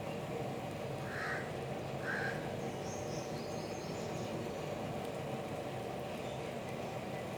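Steady rain falling, with a crow cawing twice, about one and two seconds in, and a few faint higher bird chirps shortly after.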